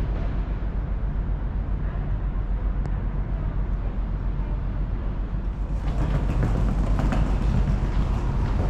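Steady low mechanical rumble of a vehicle in motion. About six seconds in it grows a little louder and brighter, with some clatter.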